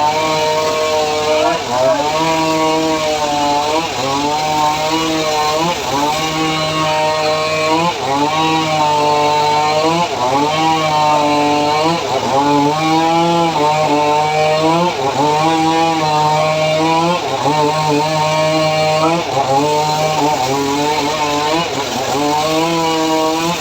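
Home-built chainsaw cutting sengon wood. Its small engine runs steadily at high revs, and the pitch sags and recovers about every two seconds as the chain bites into the log and comes free.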